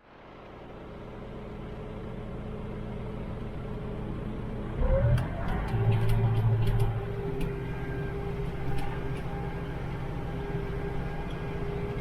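Tractor engine running, fading in from quiet. About five seconds in it grows louder, with a rising tone and a few sharp clicks, then settles into a steady hum with a held tone.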